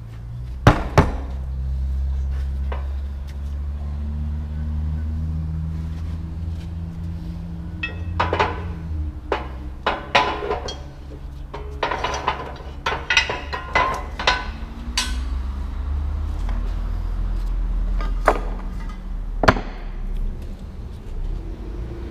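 Sharp knocks and clanks of tools striking metal: two early, a busy irregular cluster in the middle and two more near the end. Under them runs a low steady hum.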